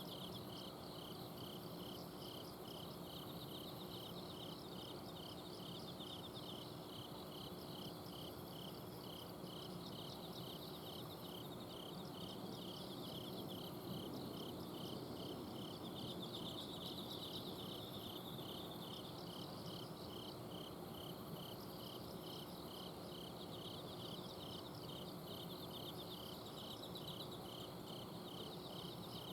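A chorus of autumn insects, crickets and the like, singing at night: one keeps up an evenly pulsing chirp while others trill higher. Under them runs the low steady hum of an air conditioner's outdoor unit.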